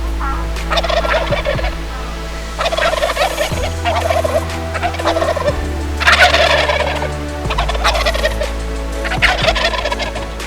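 Wild turkey gobbling repeatedly, about five or six separate rattling gobbles a second or so long each.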